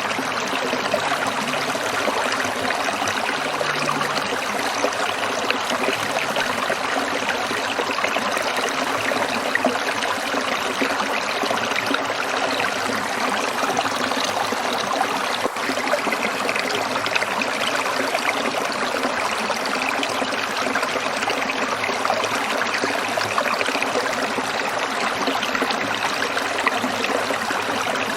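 Stream water trickling and splashing over rocks, a steady, even rush with a fine bubbling texture.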